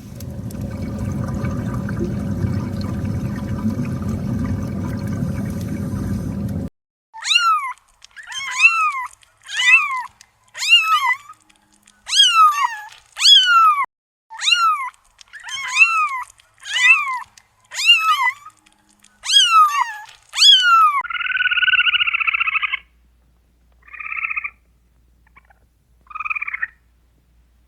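A steady noisy rumble that stops abruptly, then an animal calling over and over, about one short high call a second, each call rising and falling in pitch. Near the end come a few shorter, harsher buzzy calls.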